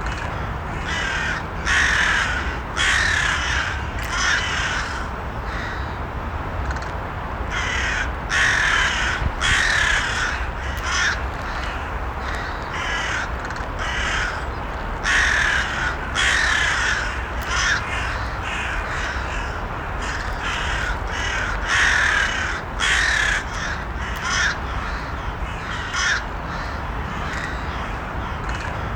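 Crows cawing, harsh calls mostly in runs of two or three about a second apart, repeating every several seconds over a steady low rumble.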